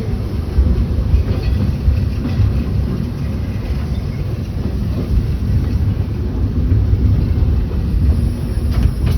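Walt Disney World Railroad train rolling along the track, heard from aboard the passenger car: a steady, loud low rumble of wheels and running gear, with a few faint clicks near the end.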